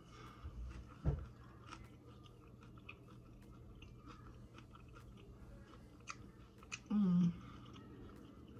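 Close-up chewing of a crunchy hard-shell beef taco: a run of small, crisp crunches and mouth sounds, with a low thud about a second in. About seven seconds in comes a short, loud hum from the eater.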